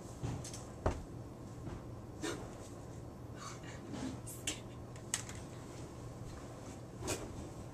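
A few scattered light knocks and clicks, about half a dozen spread irregularly, over a low steady hum.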